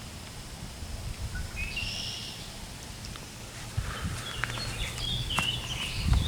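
Birds calling: a short call about two seconds in, then a run of high chirps from about four seconds on, over a low rumble.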